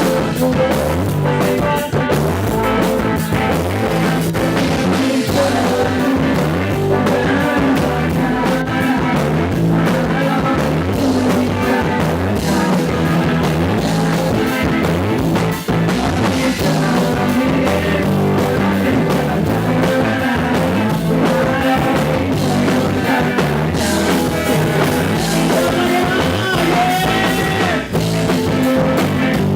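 Live rock music with drum kit and guitar, played loud and continuous.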